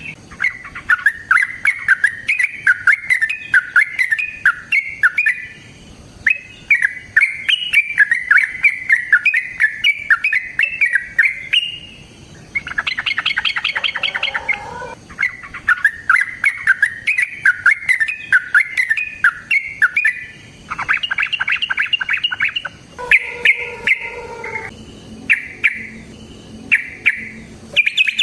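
A caged bird singing in long runs of rapid, repeated chirps, broken by short pauses. Twice it switches to a denser, buzzier trill with lower notes mixed in, about halfway through and again later.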